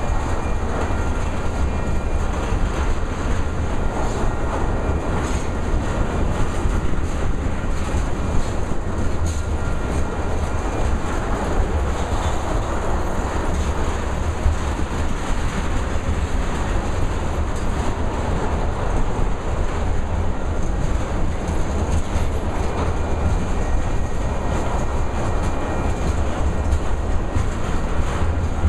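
Freight train of ethanol tank cars rolling past, with a steady rumble and the clatter of wheels over the rail joints.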